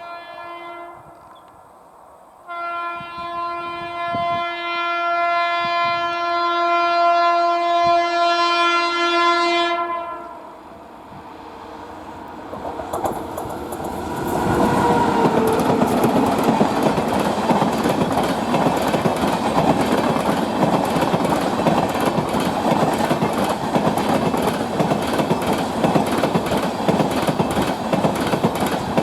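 Twin WAP-5 electric locomotives' horn sounds briefly, then holds one long steady chord-like blast for about seven seconds, growing louder as the train approaches. From about twelve seconds in, the passing train takes over with a loud, steady rush and rapid clatter of wheels over the rail joints.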